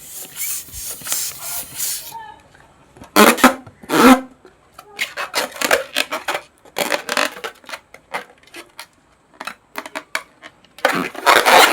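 Small rubber balloons popping, one sharp pop after another in uneven clusters. The loudest pops come about three seconds in and again near the end.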